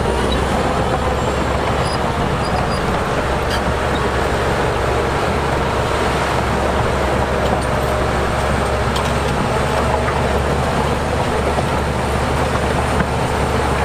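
Heavy diesel earthmoving machinery running steadily under load, a continuous engine drone with a constant low hum.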